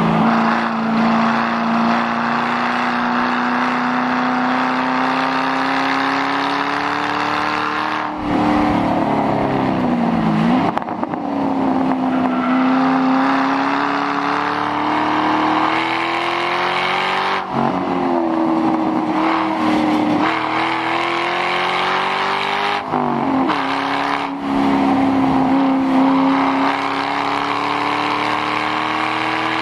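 2006 Mustang GT's 4.6-litre V8 running open with the mufflers deleted, driven hard on a track: long pulls slowly rising in pitch, broken several times by sharp drops and quick recoveries as the driver lifts and shifts.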